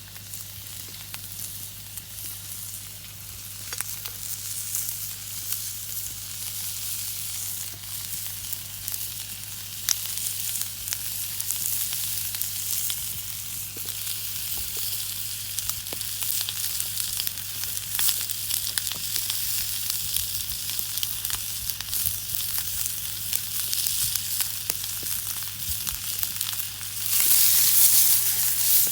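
Food frying in a deep campfire frying pan: a steady sizzle with small crackles that grows louder, jumping up sharply near the end.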